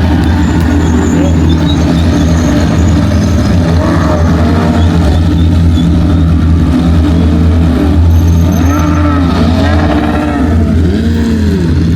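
Several race cars running at high revs on the circuit, their engine notes rising and falling again and again as they pass, over a steady low rumble.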